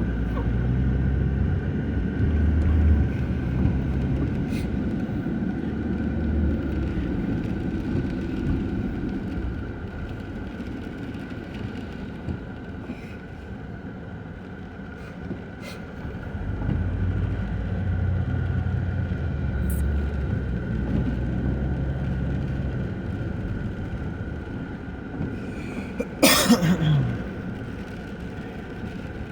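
Vehicle engine and road noise, a low hum that swells twice as traffic passes or the vehicle pulls. About 26 seconds in comes a short, loud cough.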